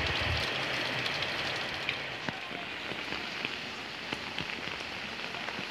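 Heavy rain falling steadily on surfaces, an even hiss with scattered sharper drop splashes.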